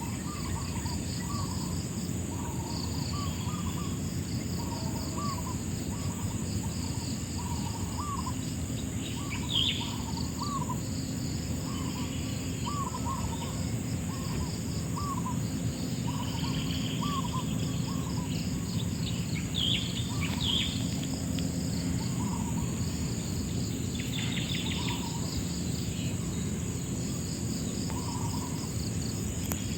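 Riverside nature ambience: a continuous high insect drone, a short call note repeated about once or twice a second for the first two thirds, and scattered bird calls over a steady low rush of running water.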